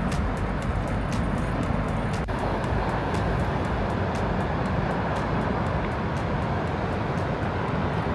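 Steady road and engine noise of a moving car, with faint ticking during the first two seconds.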